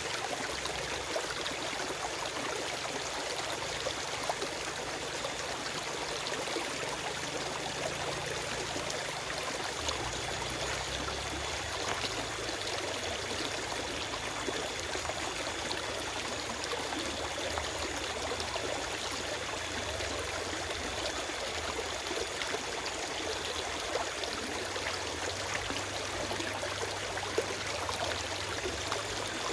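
A forest stream flowing steadily, with water rushing and trickling over rocks.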